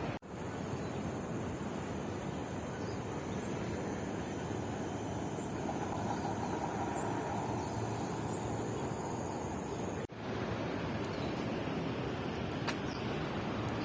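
Steady outdoor background noise with a faint, continuous high whine and a few faint short chirps. It cuts out abruptly twice, once just after the start and once about ten seconds in.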